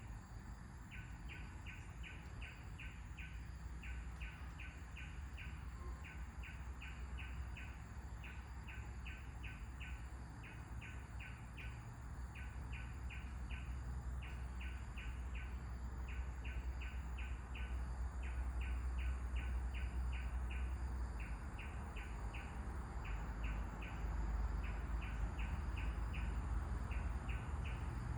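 A bird chirping: short, high notes repeated in quick runs of about five or six, run after run with brief gaps. Under it is a low wind rumble that grows louder in the second half.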